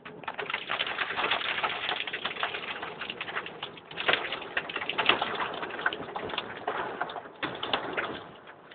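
Heavy rain pelting down in a dense, crackling patter of many hits, dipping briefly about seven and a half seconds in.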